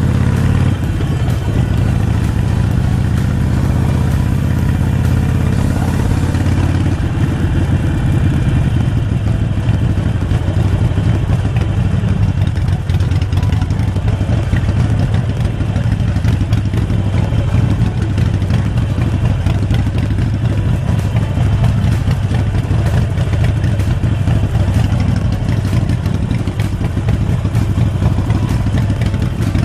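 Harley-Davidson Forty-Eight Sportster's air-cooled V-twin running on the road. Its pitch rises over the first several seconds as the bike accelerates, then it settles into a steady cruise.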